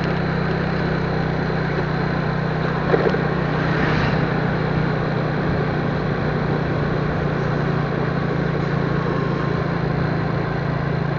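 Steady engine drone of a moving vehicle with road and wind noise, and a brief knock about three seconds in.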